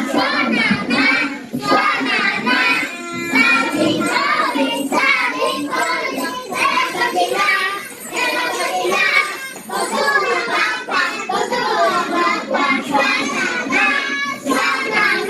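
Young children singing together, a short rhythmic song in the Atayal language, without a break.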